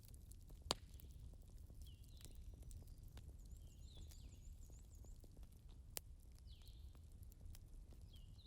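Faint ambience: short chirping calls, including a quick run of repeated high chirps midway, and a few sharp clicks, the loudest about a second in, over a steady low rumble.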